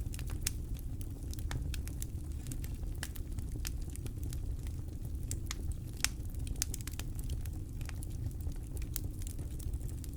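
Campfire crackling: irregular sharp pops and snaps from burning wood, the loudest about six seconds in, over a steady low rumble.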